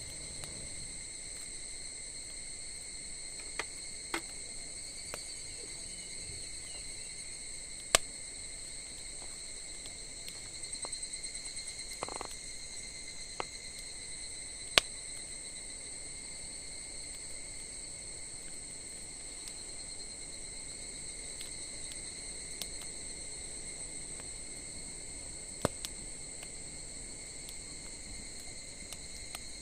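Wood burning in a campfire, giving off occasional sharp pops and crackles, two of them loud, over a steady high-pitched chirring of insects.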